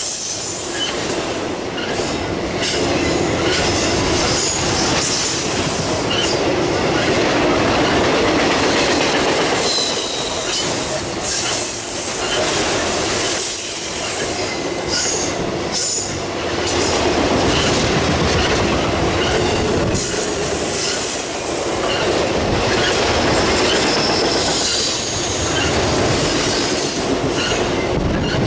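Intermodal freight train of truck trailers and containers on flatcars passing close by: steady steel-wheel rumble with repeated clacks over the rail joints and brief high wheel squeals here and there.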